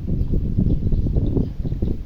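Strong wind buffeting the microphone: a loud, uneven low rumble with gusty swells.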